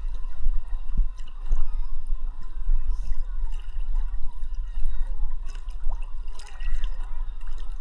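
Sea water sloshing and gurgling around a camera held at the surface by a swimmer, over a constant low rumble with small scattered splashes and clicks.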